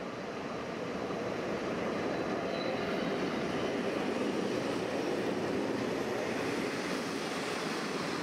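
A train running past: a steady rushing rumble of wheels on rail that builds over the first second or two and then holds.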